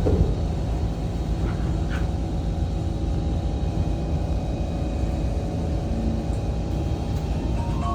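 Inside an SMRT C151 train car, a steady low rumble as the train runs between stations, with a brief thump right at the start.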